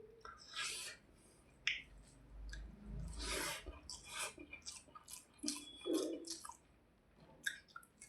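A person eating rice and hilsa fish with close-miked, wet chewing and squishing mouth sounds. These come in irregular short bursts with a few sharp clicks.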